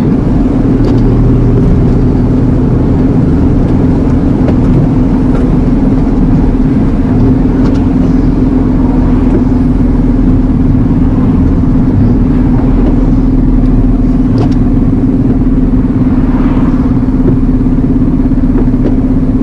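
Steady drone of an Iveco Eurocargo lorry's diesel engine and road noise, heard inside the cab while driving, with a constant low hum and a few faint clicks.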